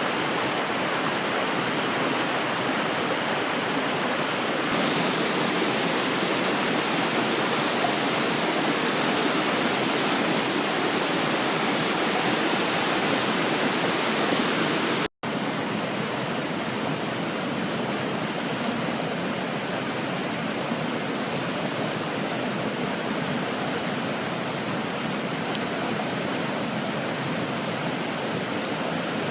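A river rushing steadily over rocks, a loud even wash of water. It shifts abruptly about five seconds in and cuts out for an instant around halfway, as at edits between shots.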